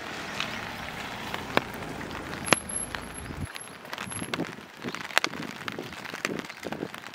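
Steady rain falling, with sharp drops tapping close by at irregular moments and a low rumble underneath that stops about three and a half seconds in.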